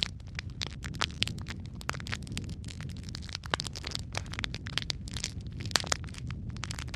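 Wood logs burning in a fireplace, crackling and popping continuously over a low steady rumble of the flames, with a few louder pops about a second in, halfway through and near the end.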